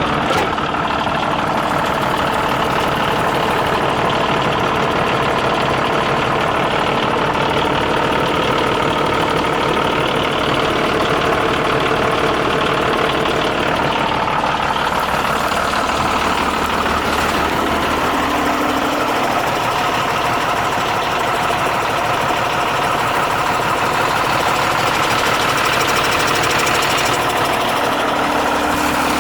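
Renault Midliner M210 4x4 truck's diesel engine idling steadily, the low hum shifting in tone about halfway through.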